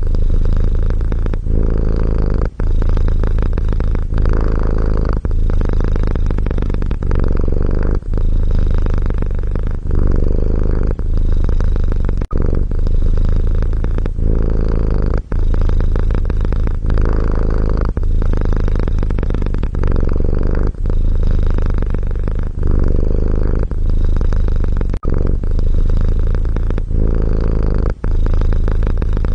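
Domestic cat purring, a low continuous purr with brief dips every second or two as the breath changes direction.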